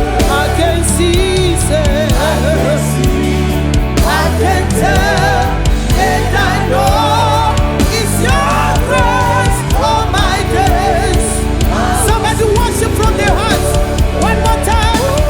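Gospel praise-and-worship music: a band holding steady low chords under a wavering sung melody line.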